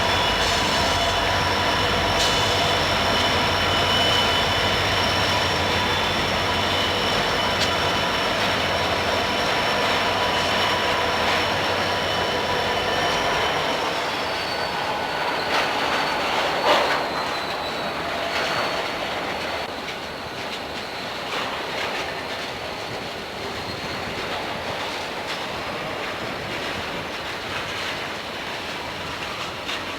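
Freight train rolling past, its wheels squealing in several steady high tones over the rumble and clatter of the cars. The deep rumble drops away about halfway through, and a single sharp clank stands out a few seconds later.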